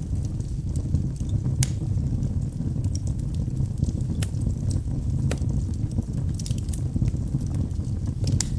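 Wood fire burning in a fireplace: a steady low roar of flames with scattered sharp crackles and pops from the logs.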